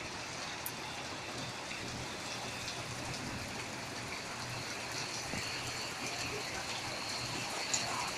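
Steady rain falling during a thunderstorm, with scattered sharper ticks of drops hitting nearby surfaces.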